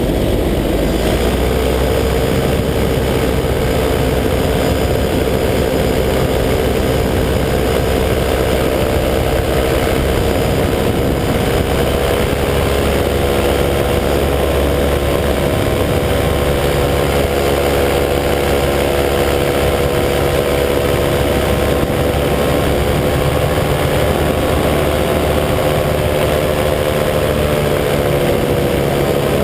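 185 cc EcXtreme paramotor's two-stroke engine running steadily in flight, its pitch rising slightly about a second in and then holding.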